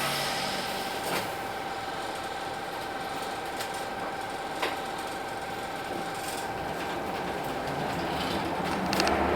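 Hino Blue Ribbon City bus's P11C 10.5-litre straight-six diesel running at idle, with a steady high-pitched whine and a couple of sharp clicks. It grows louder near the end as the engine picks up.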